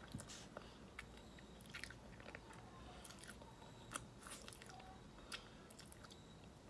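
Faint mouth sounds of a person eating chicken and rice by hand: chewing with scattered short wet clicks and smacks.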